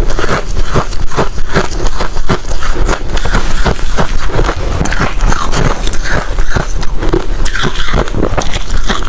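Hard crushed ice being chewed close to the microphone: a dense, rapid run of loud crunches.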